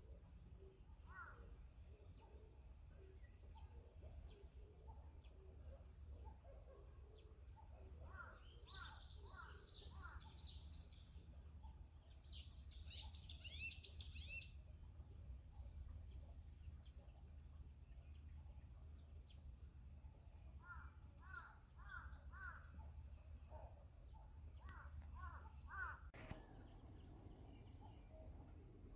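Faint birds calling outdoors: groups of three or four quick notes that come back several times, a dense patch of chirps about halfway through, and a high thin sound that comes and goes, over a steady low hum.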